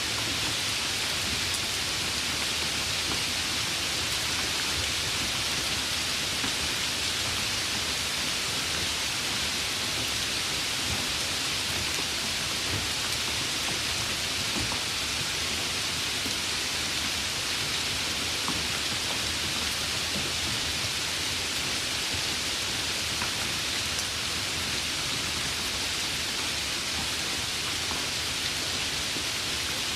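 Steady rain falling, an even hiss with no breaks or sudden events.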